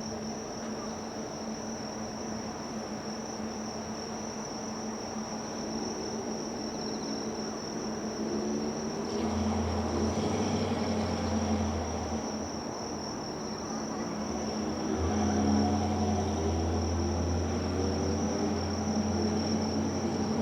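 Insects, crickets or similar, chirring in one steady high-pitched drone. A low hum comes in about nine seconds in, fades, and returns near the end.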